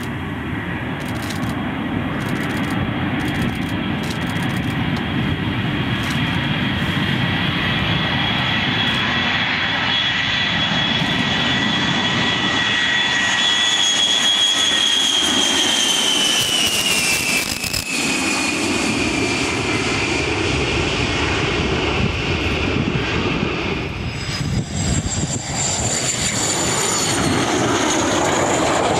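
Military aircraft engine running loud and steady with a high whine that drops in pitch about halfway through as the aircraft passes. Near the end a new, higher whine comes in.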